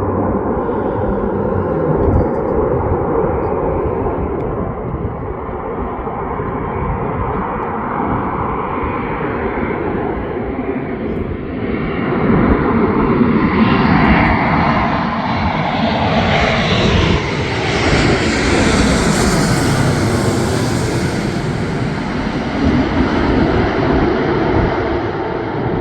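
Fixed-wing aircraft passing close, its engine noise building to a loud peak about two-thirds of the way through, with the pitch sweeping down as it goes by, then easing off.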